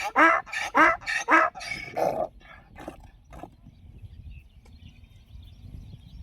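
Donkey braying: the tail end of a bray, a quick series of rasping hee-haw strokes, about three a second, that fade and stop about three seconds in.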